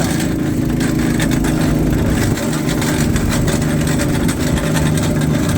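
Vehicle engine running hard at steady revs as it pushes up an icy, snowy slope.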